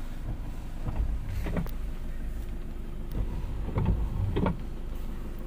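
Vehicle running slowly in traffic: a steady low rumble of engine and road noise, with a few short louder sounds, one about a second and a half in and two near the end.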